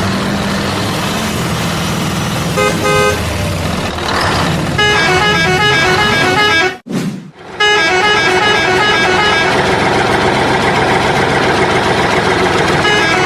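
A vehicle engine running with repeated horn toots and short melodic notes over it. The sound drops out for about a second near the middle, then resumes.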